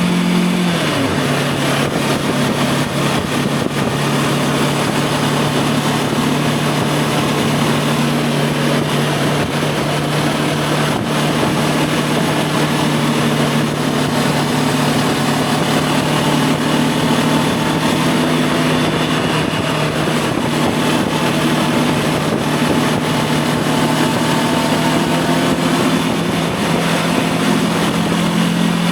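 Voge 525 DSX motorcycle's parallel-twin engine running at steady cruising revs while riding. The engine note drops about a second in and holds steady, then picks up slightly near the end, with wind rushing throughout.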